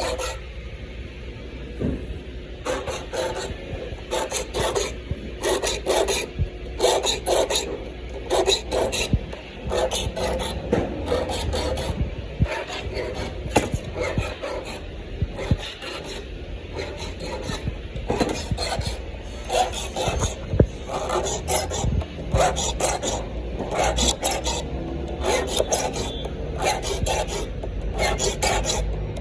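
Hand saw cutting through wood in steady, repeated back-and-forth strokes, each stroke a rasping scrape of the teeth through the wood.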